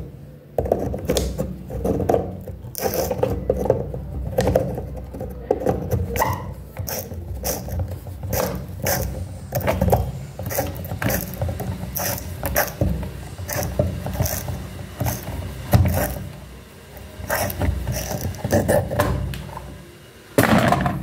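A hose fitting on a washing machine's water inlet being unscrewed by hand: irregular clicks and scrapes of the threaded coupling turning, with handling knocks.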